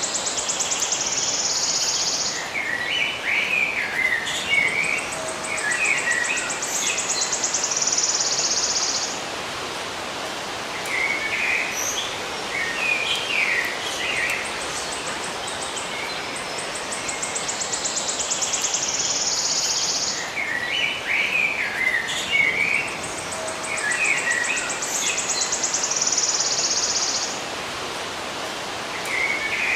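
Songbirds chirping in short bursts, alternating with a high, fast buzzing trill that lasts a few seconds at a time, over a steady hiss of outdoor background noise. The same sequence of trills and chirps comes round again about halfway through, as in a looped nature recording.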